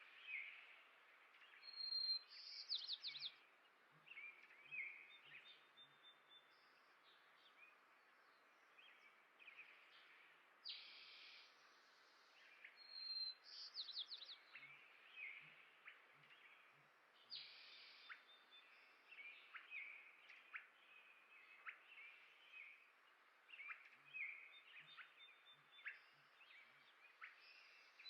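Songbirds chirping and singing: many short calls, with warbled song phrases coming back every few seconds over a faint outdoor hiss. Three times, a faint low run of five or six soft pulses about half a second apart.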